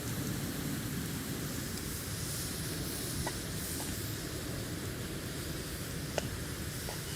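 Wood campfire burning: a steady hiss and low rumble with a few sharp crackles, one about three seconds in and a louder one near the end.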